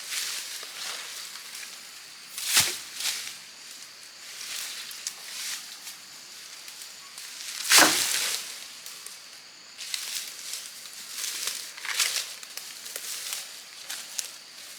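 Irregular crackling and rustling of dry leaves and brush being handled or walked through. Two sharper, louder strikes come about two and a half seconds in and about eight seconds in.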